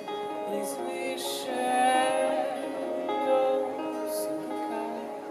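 Live acoustic song: a singing voice holding long notes over strummed acoustic guitar.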